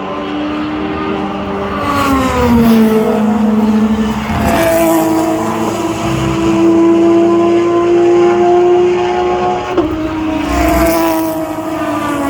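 Endurance race car engines passing at speed one after another. A steady high engine note drops in pitch as a car goes by, about two seconds in and again near ten seconds, and the next car's engine takes over.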